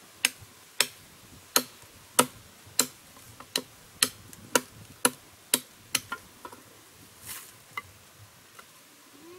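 A steady series of sharp knocks, roughly one every half second, about a dozen in all, stopping about six seconds in and followed by a few fainter, scattered knocks.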